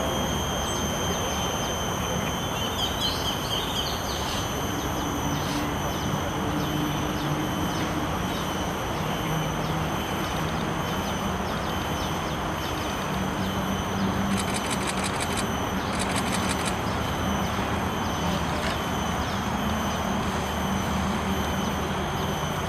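Outdoor ambience: a steady noise bed with a few brief bird chirps about three seconds in, and two quick runs of ticks around the middle.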